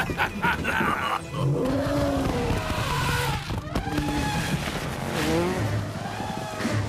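Cartoon race sound effects: vehicles revving and tyres squealing and skidding, in several rising and falling glides.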